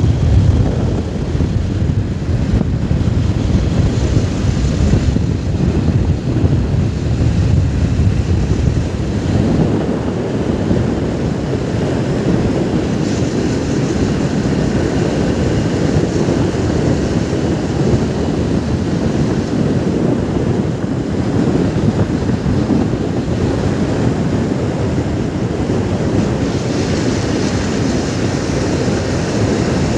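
Steady, loud wind rushing over the microphone of a moving motorcycle, with the ride's low rumble underneath.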